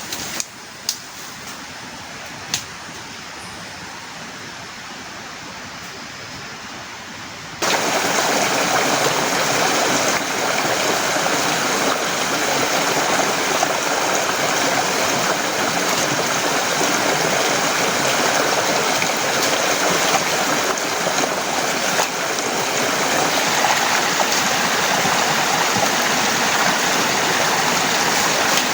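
Steady rain, with a few sharp taps near the start. About seven and a half seconds in it suddenly becomes much louder, a heavy downpour that keeps on evenly.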